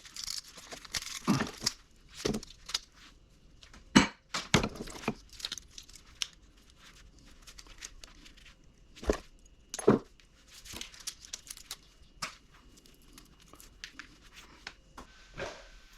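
Scrap electric-motor parts and copper windings being handled by hand: irregular clinks and knocks, with some rustling and tearing between them.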